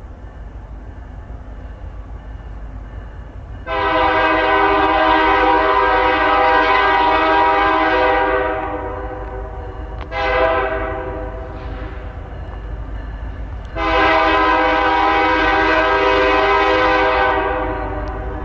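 Freight locomotive air horn sounding a long blast, a short blast, then another long blast, over a steady low rumble.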